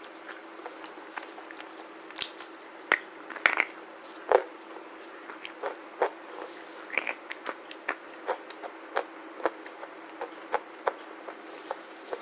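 Black slate bar being bitten and chewed close up, with a few loud sharp cracks and then a steady run of smaller dry crunches, about two a second.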